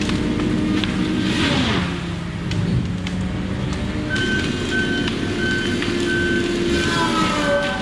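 Diesel engine of heavy logging equipment running, its pitch dropping about a second and a half in and rising again near four seconds. From there a backup alarm beeps steadily, about twice a second.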